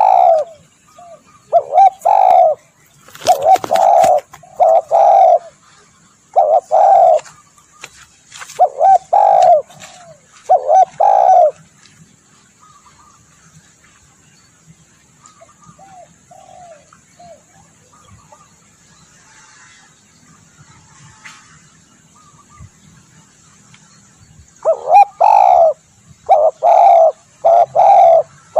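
Spotted dove cooing: groups of repeated low coo notes, falling quiet for about twelve seconds midway before a fresh run of coos near the end.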